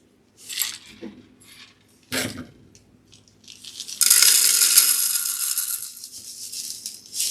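Bird seed poured into a jar with no funnel. A couple of short rattles come first, then from about four seconds in a continuous rush of seeds pattering in, which slowly thins out.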